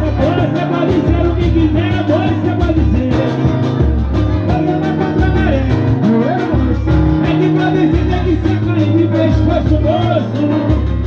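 Pagode band music: a steady groove over a moving bass line, with melodic lines above.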